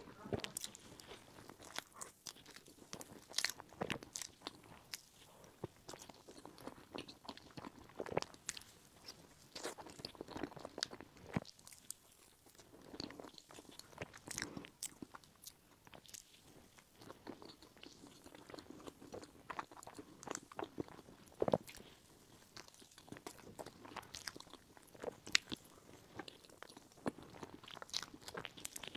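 A person chewing and biting a cream-filled crepe towel-roll cake with cookie crumbs, with irregular small clicks of chewing and mouth sounds.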